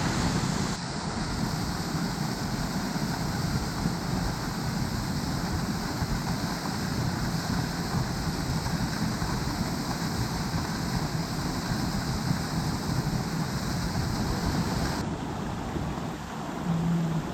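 Steady rushing water, with wind buffeting the microphone; the sound changes abruptly about a second in and again near the end.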